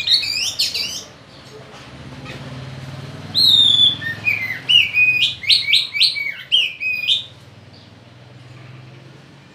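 Bird calling loudly: rapid strings of clear, whistled notes that slur downward. They come in two bouts, a short one at the start and a longer one from about three and a half to seven seconds in.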